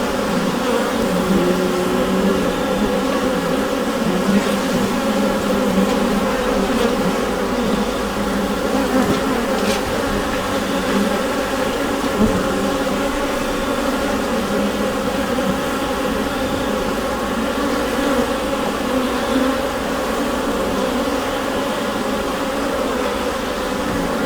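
Honeybees buzzing inside a hive: a dense, steady hum of many wings that holds level throughout.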